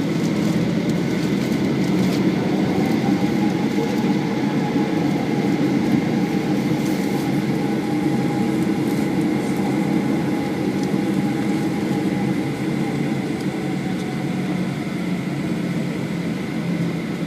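Boeing 737-800 airliner with CFM56 engines running steadily: an even rumble with several steady tones, one of which rises slightly and falls back.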